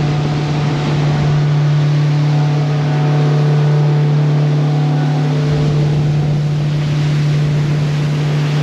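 Small boat's Suzuki outboard engine running at a steady cruising speed, a constant low drone, with water rushing past the hull.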